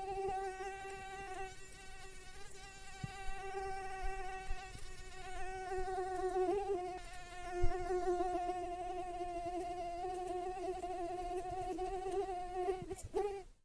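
Mosquito in flight: a steady, high wing whine that wavers slightly in pitch and dips briefly about six and a half seconds in. A short low thump comes a little past the middle, and the whine wobbles and cuts off just before the end.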